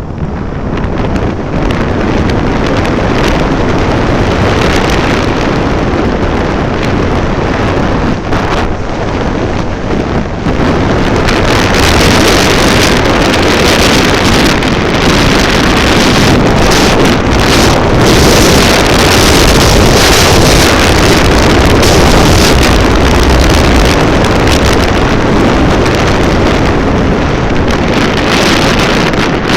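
Heavy wind buffeting the microphone of a moving vehicle at speed, over a dense rush of road and engine noise; it grows louder about a third of the way in as the speed picks up.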